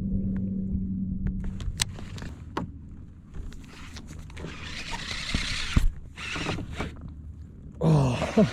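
Fishing tackle being handled on a kayak: a steady hum for the first second and a half, then scattered clicks and a hissing stretch a few seconds in. A short voice is heard near the end.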